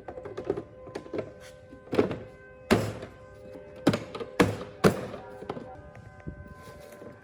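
A series of sharp knocks and thunks, the loudest bunched together about two to five seconds in, over background music with steady held notes.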